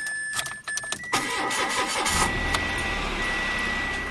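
An old car's engine being started: the starter cranks for about a second before the engine catches and settles into a steady idle, a start the owner calls reluctant. A steady high electronic warning tone sounds over it.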